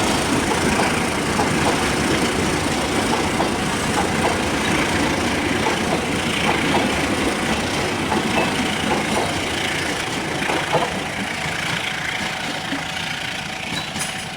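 Train running past, with a locomotive engine and rolling noise that slowly fade over the last few seconds.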